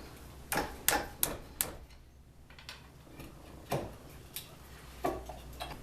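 Sharp metallic clinks and knocks of steel tools against a seized brake caliper and its pads as they are worked loose. Four quick clinks come in the first second and a half, then a few more, spaced out, near the end.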